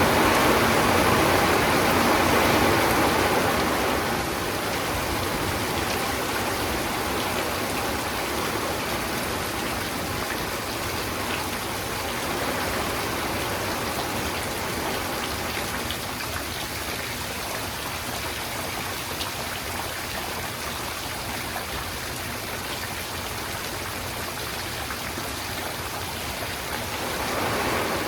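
Steady rain falling, a continuous hiss with scattered drop patters; it is heavier for the first few seconds, then eases.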